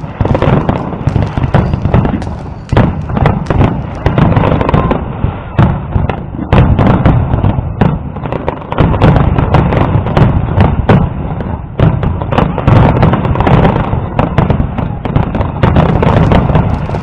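Fireworks display: many aerial shells bursting in rapid, overlapping bangs and crackles, a dense barrage with hardly a pause.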